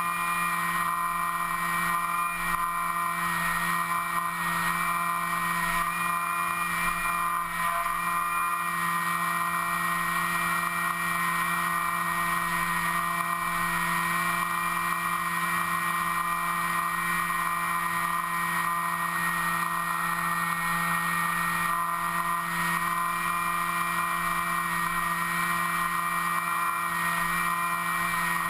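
Electric motor and propeller of an FPV model aircraft running at a steady whine, heard from its onboard camera, with small wavers in pitch as the throttle shifts.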